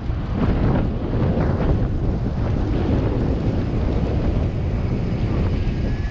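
Wind buffeting the microphone of a camera on a moving bicycle: a steady, loud, low rumbling noise.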